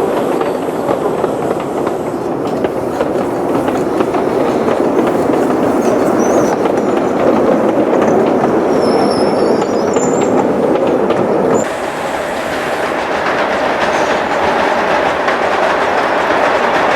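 Model train running along the track, its wheels ticking over the rails in a steady rolling clatter; about twelve seconds in the sound briefly drops and then takes on a brighter tone.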